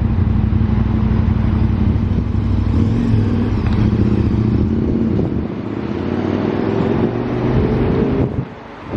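BMW 118i's three-cylinder turbo petrol engine running at low speed while parking, its note rising slowly in the second half. The sound drops away suddenly near the end.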